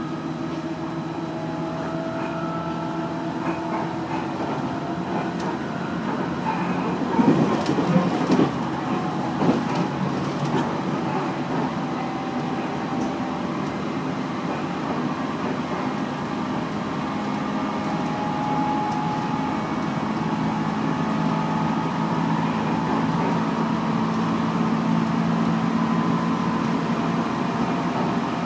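JR Central 311 series electric train heard from inside the car while running: the traction motors and their GTO-VVVF inverter whine in several tones over the rumble of the wheels, growing slowly louder as the train picks up speed. A burst of wheel clatter over rail joints comes about seven to ten seconds in.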